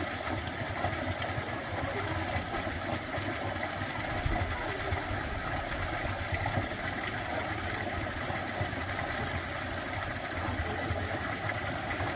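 A dense, steady frog chorus, a continuous buzzing trill, over a constant low rushing background.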